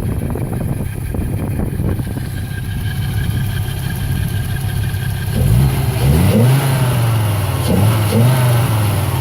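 Audi 80 B4's five-cylinder engine idling steadily, then about five seconds in revved in a series of quick throttle blips, each rising and falling back.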